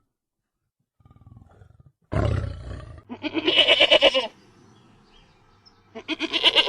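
A deep animal roar about two seconds in, followed by a long, quavering bleat-like call and a second one near the end.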